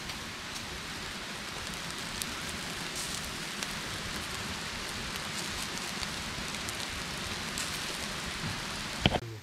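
Steady rain falling, with faint scattered drop ticks. About nine seconds in there is one sharp knock, the loudest sound, and then the sound cuts off abruptly.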